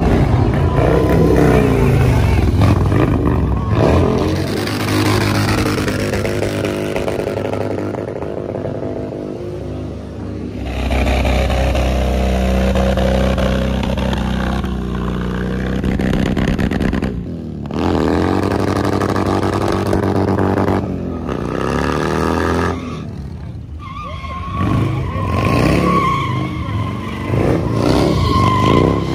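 Motorcycle engines revving hard, the pitch rising and falling repeatedly, with abrupt changes in the sound a few times.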